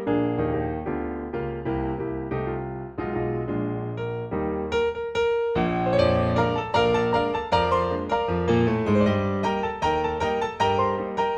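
Background piano music, notes played at a gentle, even pace.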